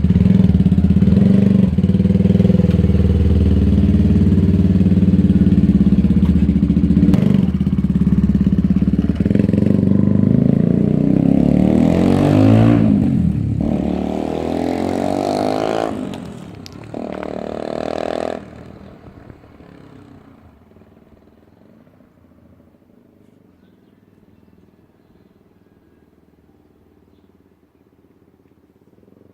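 Benelli TNT 125's single-cylinder engine with a decatted Werx straight-pipe exhaust, running loud and steady. About ten seconds in it revs up and down, the pitch rising and falling. After that it drops away and fades to a faint hum by about two-thirds of the way through.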